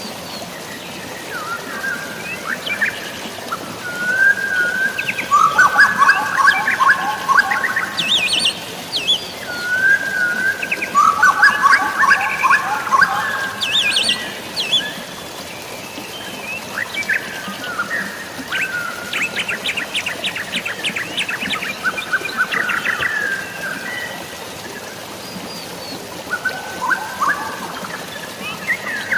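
Several songbirds chirping and singing in short, varied phrases, busiest in the first half, over a steady wash of drizzling rain and flowing water.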